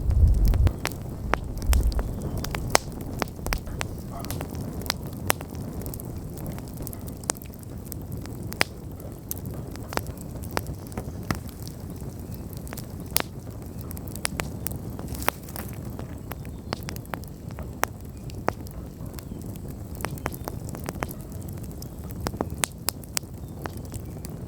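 Wood bonfire crackling as it burns down: irregular sharp snaps and pops over a low steady hiss of the flames. A louder low rumble at the start fades within the first couple of seconds.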